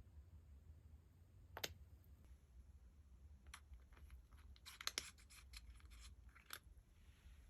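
Faint clicks and crackles of small objects being handled: one sharp click about a second and a half in, then a run of small clicks a couple of seconds later, busiest about halfway through, over a low hum.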